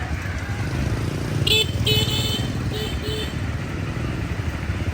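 A small motor vehicle's engine running steadily with a fast pulsing beat. Four short honks come in a quick group about a second and a half in.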